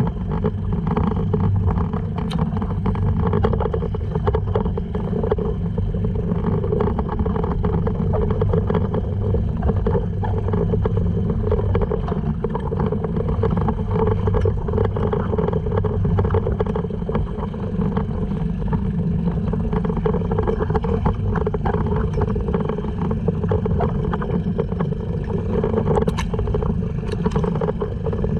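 Honda 2.3 hp four-stroke outboard motor pushing a sea kayak, running steadily at an even speed with water and wind noise under it.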